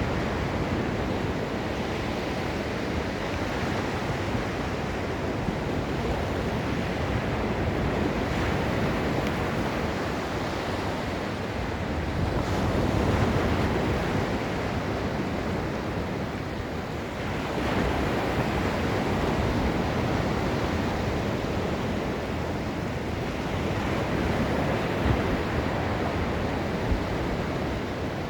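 Gulf of Mexico surf washing onto the beach in a steady rush, swelling as waves break about 12 seconds in and again about 17 seconds in.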